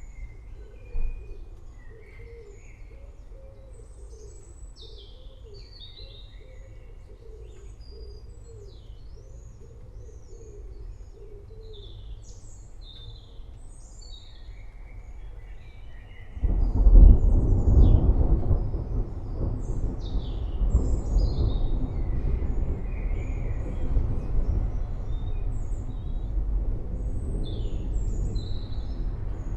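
Forest birds chirping and calling throughout, with a brief knock about a second in. About halfway through, a loud low rumble of thunder begins suddenly and rolls on to the end, under the continuing birdsong.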